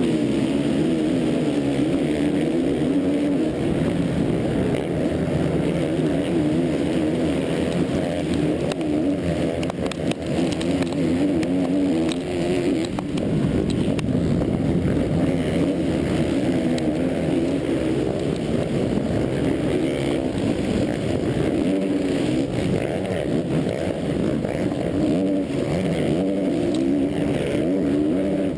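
Motocross bike engine heard from a camera mounted on the bike, revving hard with its pitch rising and falling constantly as the throttle is worked around the track.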